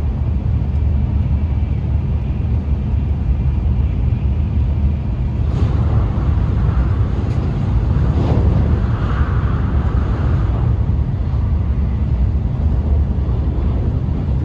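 Shinkansen bullet train running, heard from inside the passenger cabin: a steady low rumble, with a louder rushing swell for about five seconds in the middle.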